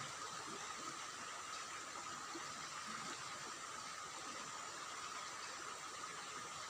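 Steady rush of flowing stream water, even and unbroken, with a thin steady high tone running along with it.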